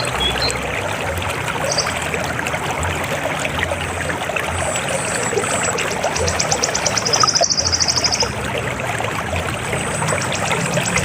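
River water flowing and splashing steadily. A high, rapid pulsing trill joins in about four seconds in, stops about eight seconds in, and starts again near the end.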